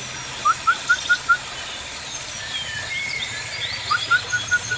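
Birds calling in an aviary: two quick runs of five short rising notes, one about half a second in and one near the end, over scattered high chirps and twitters.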